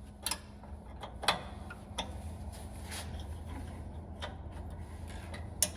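Scattered light clicks and knocks of hand tools being used to tighten a part, about one a second and unevenly spaced, over a low steady hum.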